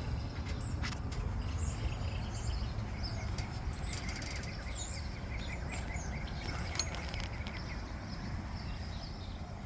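Outdoor ambience: a steady low rumble with scattered faint bird chirps and a few light clicks.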